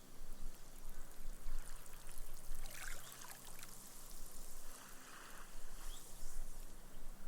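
Small, gentle waves washing up a sandy beach and fizzing away as the foam soaks into the sand, in two swells about a second in and again about five seconds in.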